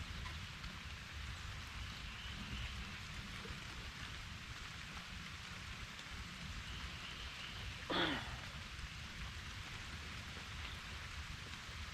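Steady rain falling, an even hiss of drops, with one brief louder sound about eight seconds in.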